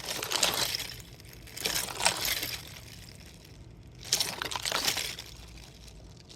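Crinkly plastic water bottle, partly frozen, being handled: three bursts of plastic crinkling and crackling, with ice inside clinking, each lasting about a second with short pauses between.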